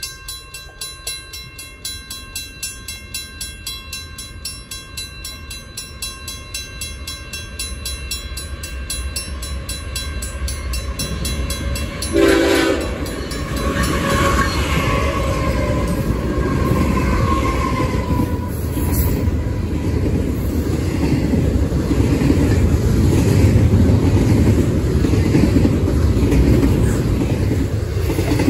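A crossing bell rings steadily with evenly repeated strikes while a BNSF freight approaches. About 12 seconds in, the lead diesel locomotive gives a short, loud horn blast. Then the locomotives and double-stack intermodal cars pass at speed, a heavy rumble and rattle that grows louder toward the end.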